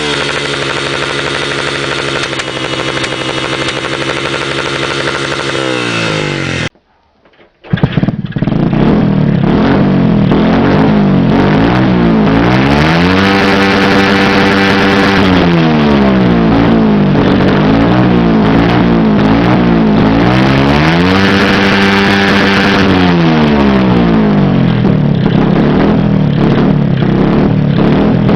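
Small-displacement motorcycle engine held at high revs, then dropping off as the recording cuts out for about a second. Another small motorcycle then idles and is revved twice, each time rising to a flat ceiling, held at the rev limiter for two or three seconds, and falling back to idle.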